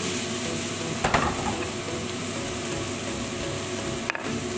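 Diced zucchini sizzling as it fries in a pan on a gas burner, with one sharp clank of the pan about a second in.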